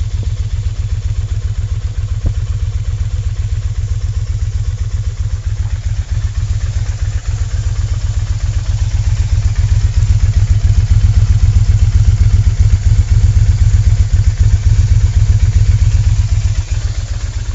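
Kawasaki Vulcan 1500 Classic V-twin motorcycle engine idling with a steady, loping low exhaust pulse. It gets louder a little past halfway and drops back near the end.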